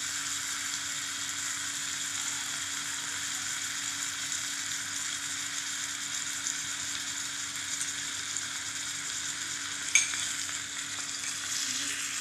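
Chicken, tomatoes and onion frying in oil in a miniature aluminium pot, a steady sizzle throughout, with a single sharp knock about ten seconds in.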